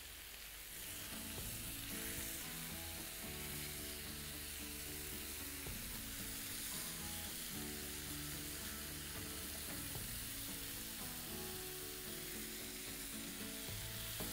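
Marinated boneless chicken on wooden skewers sizzling steadily as it fries in a little oil in a pan, while a wooden spatula turns the pieces over. Soft background music with changing notes comes in about a second in.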